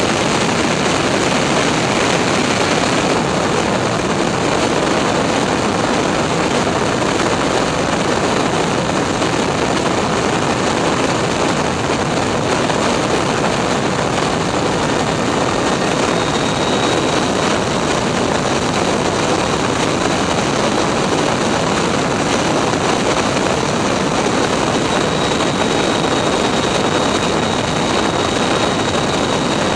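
Steady, loud rush of airflow and jet engine noise heard from inside a Boeing 747's landing-gear bay in flight. A faint high thin whine comes in about halfway through.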